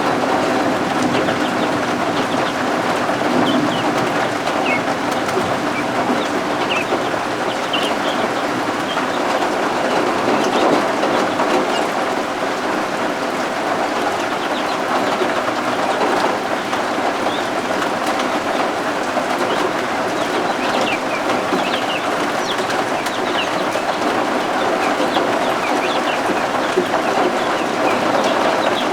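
Steady rain with baby guinea fowl (keets) peeping, short high chirps scattered now and then over the rain.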